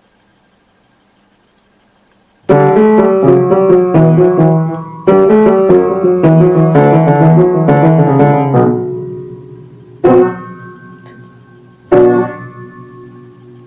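A piano being played. After a couple of seconds of quiet, a quick run of notes and chords lasts about six seconds and rings out, then two more single chords are struck a couple of seconds apart.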